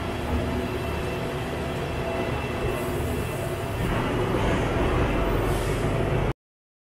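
Train running at a railway station: a steady rumble with a few faint steady tones. It grows louder about four seconds in, then cuts off abruptly just after six seconds in.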